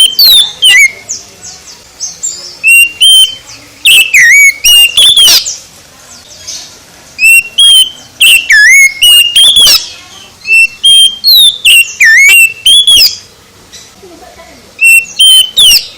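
Oriental magpie-robin (kacer) singing loudly: bouts of clear whistled notes with rising and falling slurs, each bout a couple of seconds long, with short pauses between them.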